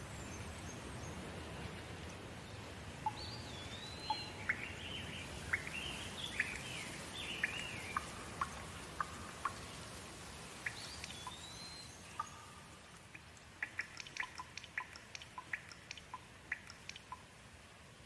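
Steady rain with birds calling over it: short chirps and whistles that rise and fall, through the first half. After about twelve seconds the rain eases and a quick run of sharp drip-like ticks follows.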